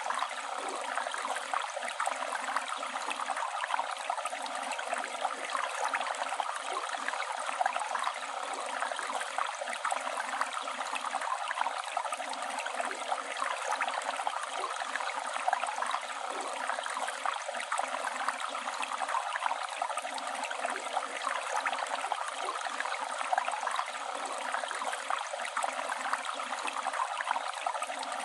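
Flowing river water, a steady unbroken rush.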